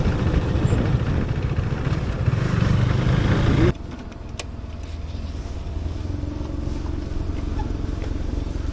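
Motorcycle riding along with heavy wind rush on the helmet microphone over the engine's low drone. About three and a half seconds in, the sound drops suddenly to a quieter, steady engine hum.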